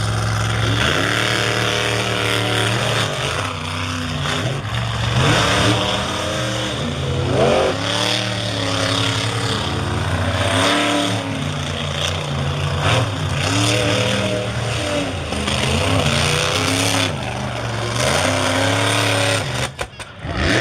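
Monster truck engines revving hard, the pitch repeatedly climbing and falling as the throttle is worked during a side-by-side race run.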